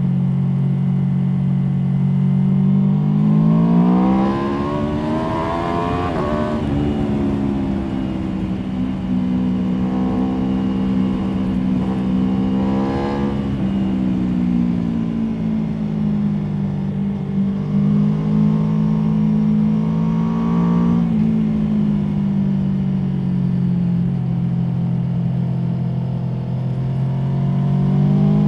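Aprilia Tuono V4 motorcycle's V4 engine under way. It holds a steady note at first, then revs up in rising sweeps about three seconds in, around twelve and around twenty seconds, dropping back in pitch between them as the rider comes off the throttle or shifts.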